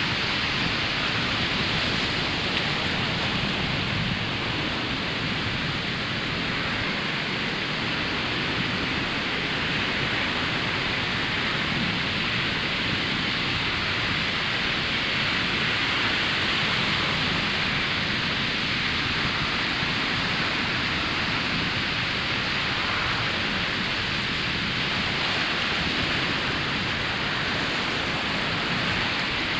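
Ocean surf breaking on a sandy beach: a continuous wash of waves with slow, gentle swells in loudness and no single crash standing out.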